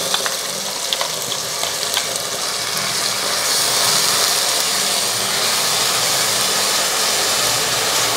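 Wet onion-tomato paste sizzling in hot oil in a stainless steel pot as it is stirred and spread with a spatula. The sizzle grows louder about three seconds in, with a few light clicks in the first two seconds.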